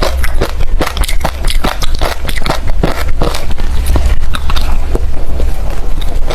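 Refrozen crushed ice, hard and crunchy, being bitten and chewed close to the microphone: rapid, irregular crunches several times a second.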